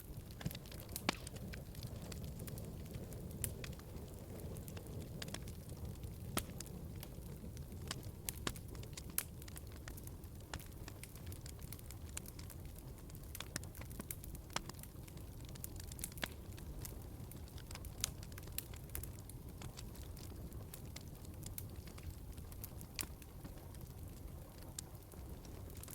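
Log fire crackling in a fireplace: a steady low rumble of flames with sharp, irregular pops and snaps.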